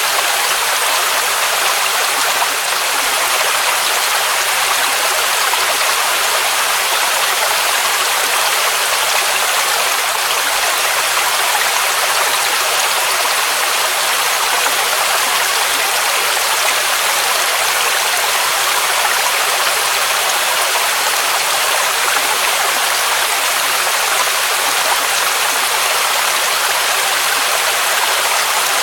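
Waterfall rushing in a steady, even roar of falling water, with no breaks or changes.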